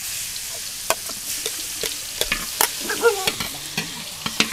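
Hot oil in a large wok sizzling loudly as minced aromatics are tipped in and stirred, with metal ladles clinking and scraping against the wok. The sizzle starts suddenly as the food hits the oil.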